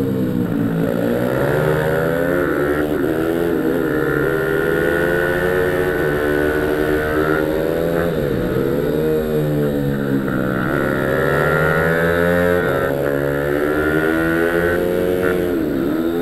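A pit bike's small engine running hard on a track, its pitch climbing for a few seconds and then dropping sharply again, about five times over, as the bike is ridden through the gears and backed off.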